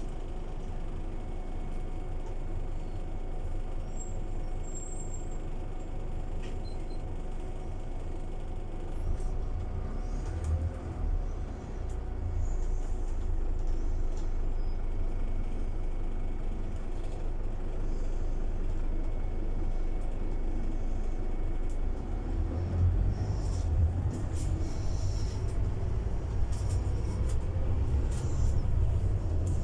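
Scania city bus running, a steady low engine rumble that dips briefly and then grows louder about twelve seconds in, and louder again near the end, with a few short air hisses in the later part.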